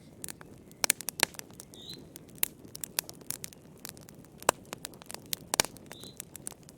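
Wood fire crackling in a fireplace: irregular sharp pops and snaps, a few of them louder, over a low steady hiss.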